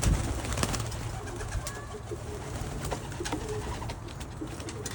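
Pigeons cooing, with a thump right at the start and scattered light knocks and clicks.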